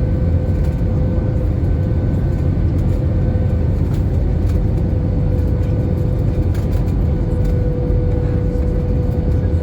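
Steady in-flight drone of an Airbus A320 heard from inside the cabin: a loud, deep rumble of engines and airflow with a steady hum above it.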